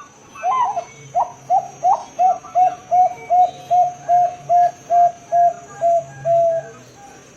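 Zebra dove (Perkutut Bangkok) cooing: a quick series of about sixteen short coos, two or three a second, the first few sweeping upward and the rest held on one steady pitch.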